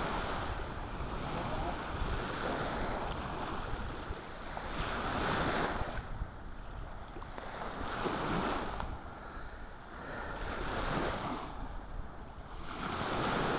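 Surf on a beach, the rush of waves swelling and fading every two to three seconds, over a low rumble of wind on the microphone.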